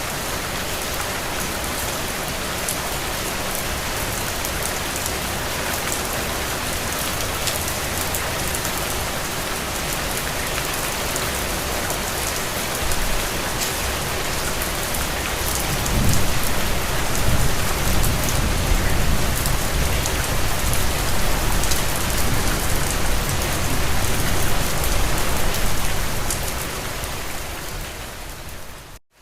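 Steady rain falling, a continuous hiss with fine drop ticks. About halfway through, a deeper low rumble joins and the sound grows louder. Near the end it fades and cuts out for a moment.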